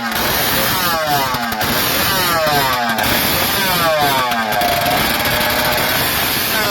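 Motorcycle engine revved in repeated throttle blips, each one climbing and then falling away, about one every second and a quarter, with the revs held for a moment in the second half. It is loud.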